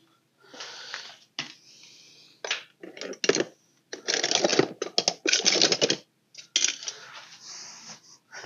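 Irregular clicking and clattering of hand tools and parts being handled, in uneven clusters, busiest in the middle.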